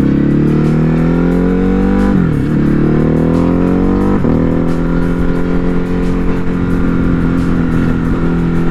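Ducati Hypermotard 950 RVE's 937 cc L-twin engine pulling up through the gears: its pitch rises, dips at a shift about two seconds in, rises again, drops at a second shift about four seconds in, then holds steady.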